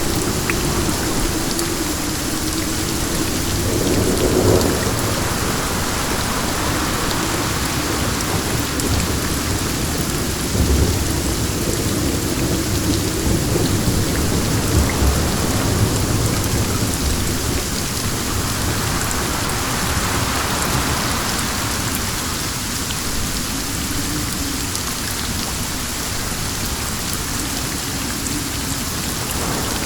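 Steady rain falling with wind. The noise swells twice, and a low rumble comes through in the middle.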